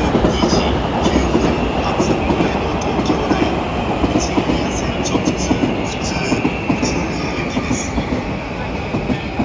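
Electric train moving along the platform, its wheels clacking over rail joints, with a faint whine that slowly falls in pitch.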